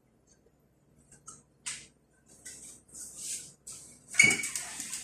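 Kitchen cookware being handled: scattered light clicks and scrapes, then a metallic clank with a brief ring about four seconds in.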